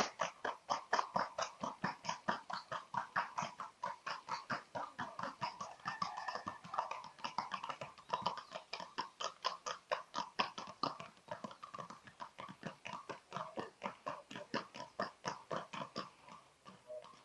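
A Paso horse's hooves striking the ground at the trot: a fast, even run of sharp hoofbeats, about five a second, fading out near the end.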